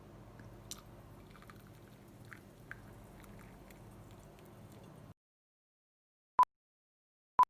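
Faint room tone with a few small clicks, cutting to dead silence about five seconds in, then two short, loud electronic beeps one second apart, each on one steady high pitch.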